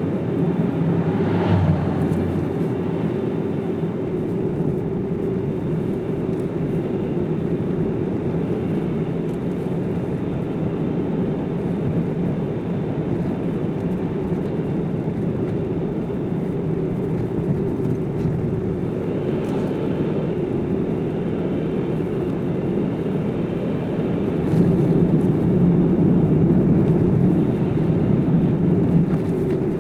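Car driving on a mountain road: steady road and engine noise, getting louder for a few seconds near the end.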